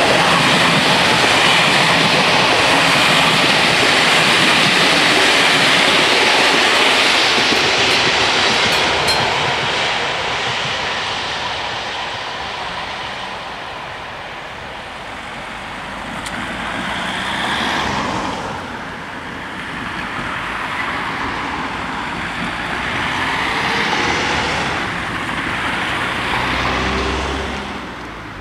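A passenger train's coaches rolling past over a level crossing, a loud steady rumble and rush that fades away after about ten seconds. Then a few road vehicles drive over the crossing one after another, each swelling and passing.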